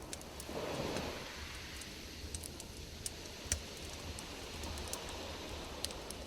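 Campfire crackling: wood popping in short, irregular snaps over a steady low rumble.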